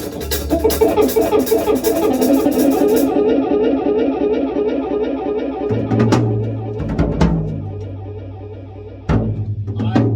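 Rock band playing: a guitar riff over drums with fast cymbal strokes. The cymbals stop about three seconds in, and the second half is a held low note with a few loud drum hits.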